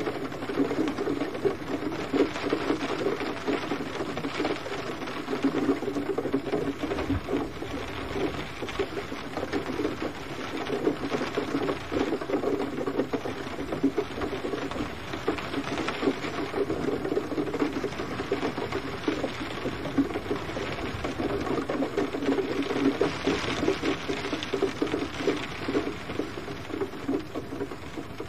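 Steady rain pattering densely on a surface, with a fine crackle of many small drops and slight swells in intensity.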